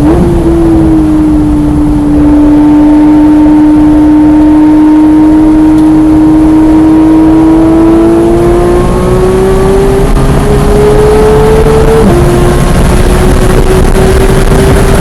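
Porsche 991.1 GT3's 3.8-litre flat-six running hard on track, its pitch nearly steady for several seconds and then climbing slowly, with a short step down about twelve seconds in. Very loud, over a steady rumble of road and wind noise.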